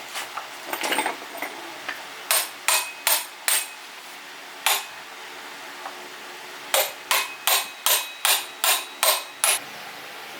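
A hammer striking metal, each blow with a short metallic ring: four quick blows, a single one, then a run of eight at about three a second, after a brief clatter at the start.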